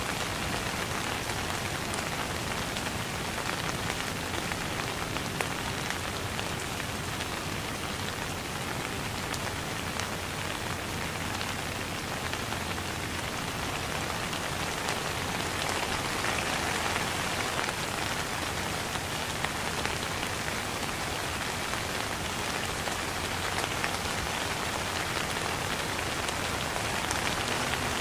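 Steady rain falling on a wet surface: a dense, even patter of drops with a few sharper splashes standing out.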